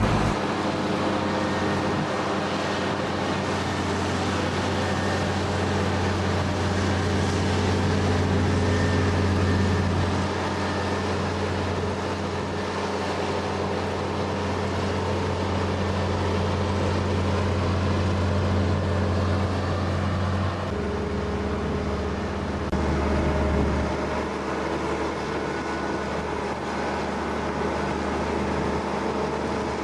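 A motor running steadily with a low hum; its pitch steps down about twenty seconds in.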